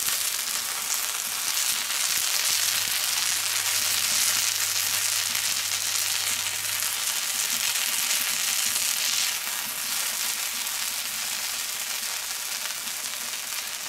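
Bacon-wrapped spring rolls sizzling on a hot steel fire plate, the bacon fat frying with a steady hiss.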